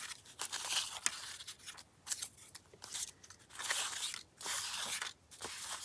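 Paper being handled and shuffled on a craft table: several short, dry rustling scrapes with brief pauses between them.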